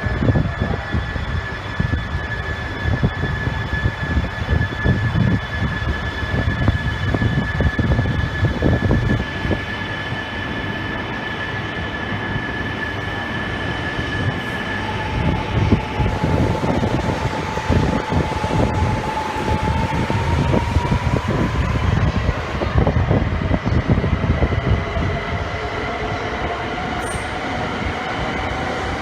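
Train moving along a station platform: a dense rumble of wheels with many short knocks, under a steady whine. About halfway through that whine drops out and a new one starts, slowly rising in pitch.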